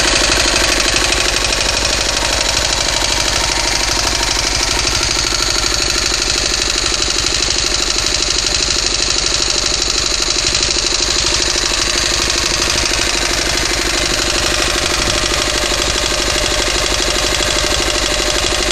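Small 5 HP Yanmar L5 diesel engine running steadily, with an even, rapid diesel knock.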